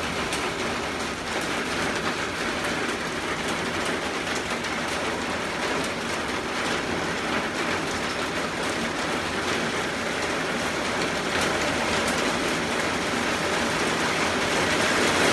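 Steady rain falling on a screened porch enclosure, an even hiss that grows a little louder near the end.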